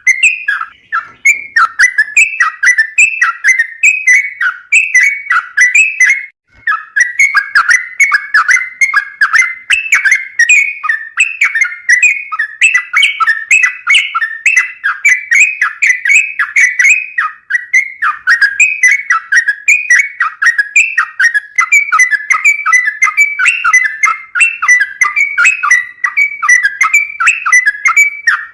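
Yellow-vented bulbul (trucukan) singing a long, fast run of bubbly, whistled chattering notes, repeated many times a second, with a brief pause about six seconds in.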